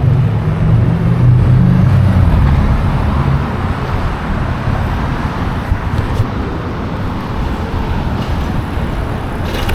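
Road traffic noise heard while riding, with a heavy low rumble in the first three or so seconds that then settles to a steadier hum.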